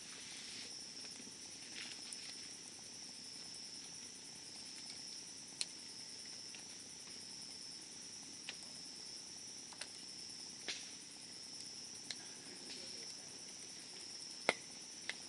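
Wood fire burning with scattered sharp crackles and pops, the loudest near the end, over a steady high chirring of insects.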